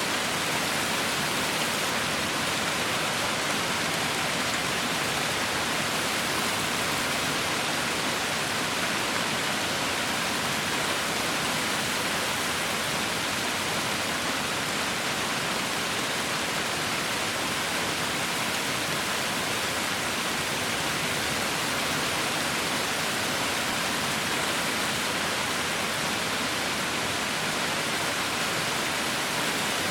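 Heavy rain falling in a steady, even hiss, with no single drops or gusts standing out.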